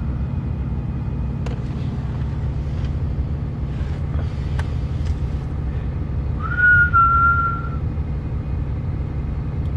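Steady low rumble of a truck idling, heard from inside the cab. About two-thirds of the way through, one high whistle-like note sounds for about a second, with a few faint clicks around it.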